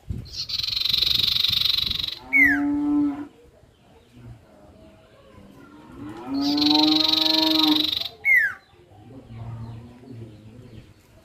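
Sirtu songbird calling, the same phrase twice: a hissing rush, then a quick falling whistle and a low, nasal, drawn-out note. Vocal sound like this is used as a lure to get a quiet sirtu singing.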